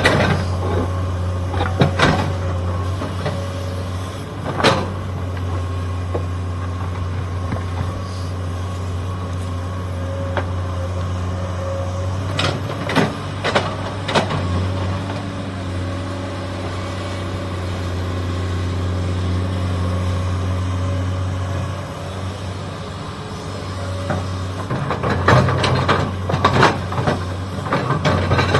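Excavator's diesel engine running steadily, with sharp clanks and knocks from the bucket working rock and soil now and then, several in quick succession near the end.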